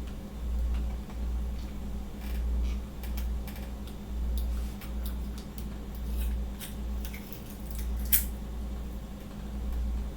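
Scattered small clicks and taps of food being handled with kitchen utensils while a sardine sandwich is put together, with one sharper click about eight seconds in, over a steady low hum and rumble.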